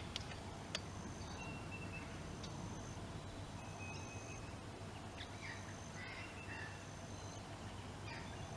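Faint bird calls, short thin high whistles and chirps scattered through, over a steady low background rumble.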